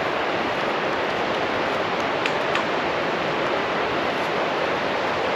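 Steady rushing hiss of outdoor noise, with a couple of faint ticks about two and a half seconds in.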